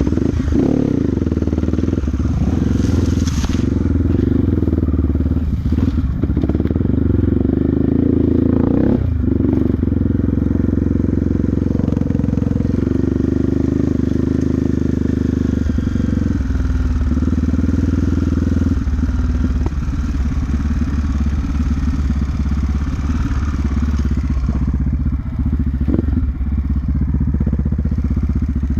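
Motorcycle engine running steadily while the bike is ridden along a trail. The engine note shifts a few times as the speed changes.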